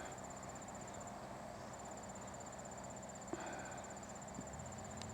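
Insects trilling in the grass: a faint, steady, high-pitched, fast-pulsing trill that breaks off briefly about a second in, then resumes. A low hum comes in near the end.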